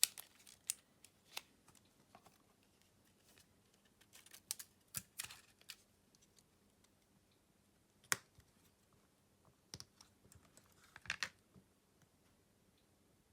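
Scattered light clicks and taps of a Xiaomi Redmi A2 phone being taken apart with small tools. A quick run of clicks comes about four to six seconds in, a single sharp click about eight seconds in, and another short run about eleven seconds in.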